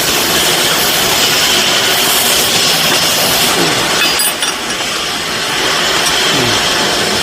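IW-60S hydraulic ironworker running, its hydraulic pump giving a steady machine noise, with a brief dip and a sharp metallic click about four seconds in.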